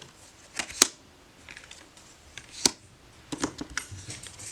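Large, slightly glossy oracle cards being flipped through and laid down one by one, each making a sharp snap or tap, with a quick cluster of them near the end.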